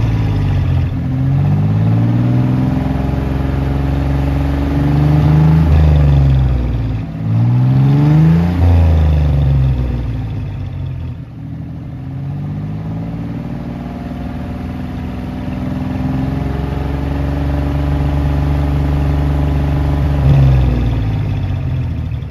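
Jeep CJ5's Dauntless V6 running through Flowmaster Super HP-2 mufflers and 2-inch tailpipes, revved up and down a few times, then settling to idle about halfway through, with a short blip of the throttle near the end.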